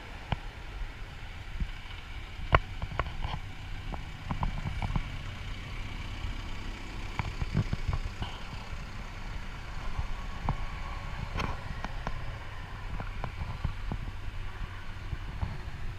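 A 2013 CAT 420F backhoe loader's diesel engine idling steadily. Scattered clicks and knocks sound over it, with one sharp knock about two and a half seconds in.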